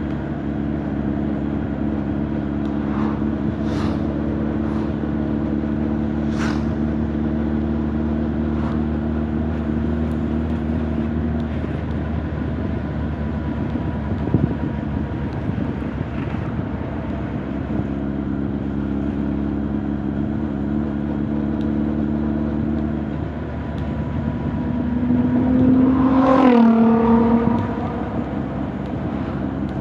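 Honda CB1300 Super Bol d'Or's inline-four engine and exhaust running at a steady speed while riding. Near the end the revs rise, getting louder, and then drop sharply.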